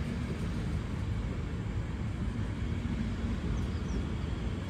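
A National Express electric multiple-unit train rolling past alongside the platform: a steady low rumble of wheels on the rails.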